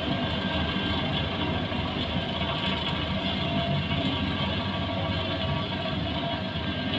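Heavy diesel road-construction machine running steadily.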